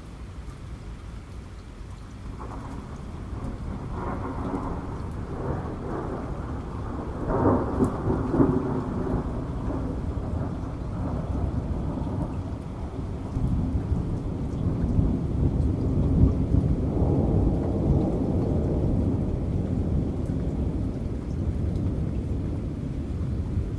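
Thunder rumbling in waves over steady heavy rain, growing louder after the first couple of seconds and peaking twice, about a third of the way in and again past the middle.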